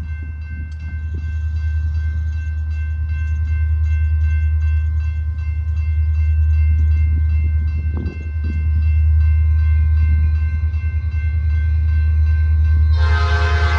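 Diesel locomotive of a passing freight train running close by: a loud, steady low rumble, with steady high ringing tones and a fast, regular ticking above it. Music comes in near the end.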